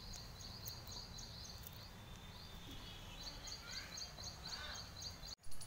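A small bird chirping over and over, about four short high chirps a second, pausing for a moment midway, over a low outdoor background rumble. Just before the end the sound cuts out for an instant and a short bump follows.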